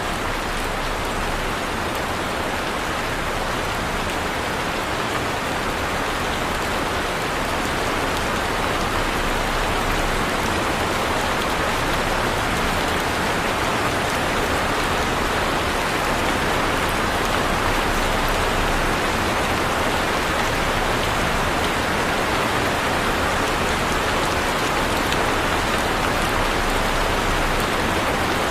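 Heavy rain falling steadily, a dense even hiss of drops with scattered faint patters, swelling a little about a third of the way through.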